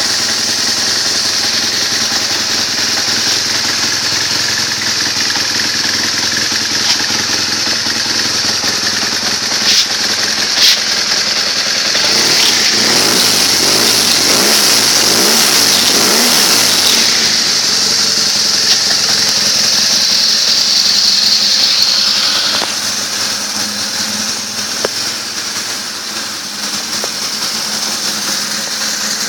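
BMW R1200 GS boxer-twin engine running through an Akrapovic exhaust just after a cold start. The engine speed rises and falls several times near the middle, then settles back to a lower, quieter idle about two-thirds of the way through.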